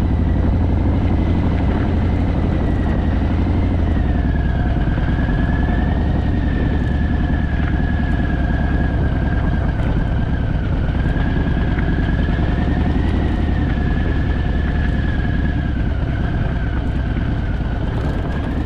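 Harley-Davidson motorcycle engine running steadily at low speed as the bike is eased slowly down a slope onto firmer ground.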